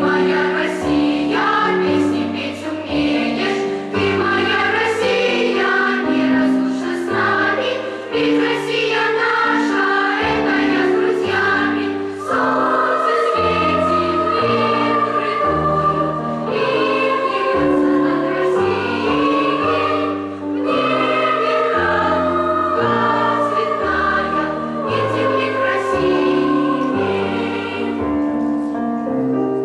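A choir singing a song with accompaniment; the voices thin out near the end.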